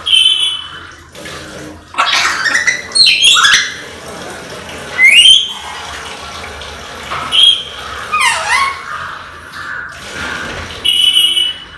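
Pet parrot whistling and squawking in a string of loud separate calls. They include quick rising and falling whistled glides, with a short steady high tone at the start and another near the end.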